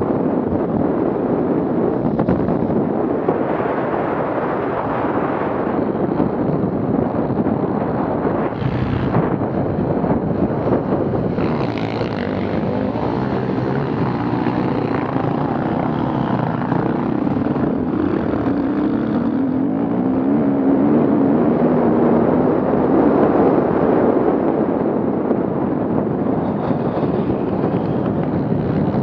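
Off-road vehicle engines running loud and continuously, with one engine revving up about two-thirds of the way through.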